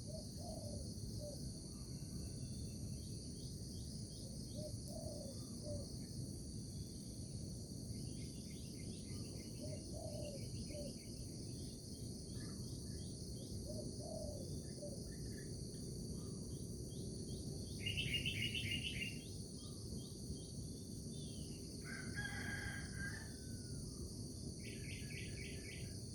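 Morning nature ambience: a steady high chorus of insects such as crickets, with bird chirps and trills at intervals. The loudest is a trill about two-thirds of the way through, and a longer pitched call, likely a rooster crowing, follows shortly after.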